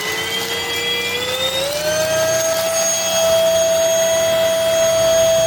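MBYULO cordless stick vacuum running just after being switched on, its motor whine climbing in pitch in two steps over the first two seconds, then holding steady.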